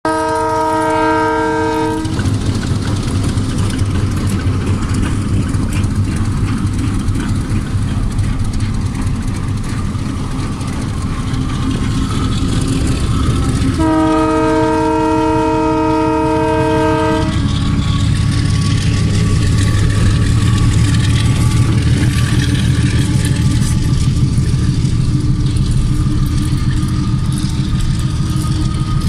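Diesel locomotive horn sounding two chord blasts, one about two seconds long at the start and a longer one about halfway through, over the steady low rumble of the locomotive's diesel engine and the train running along the track.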